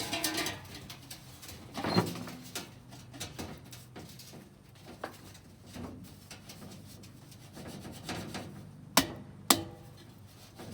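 Scattered knocks and rubbing from parts being handled, with a louder knock about two seconds in and two sharp knocks about half a second apart near the end.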